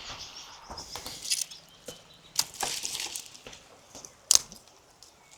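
Small wood campfire crackling, with irregular sharp pops and snaps; the sharpest pop comes about four seconds in.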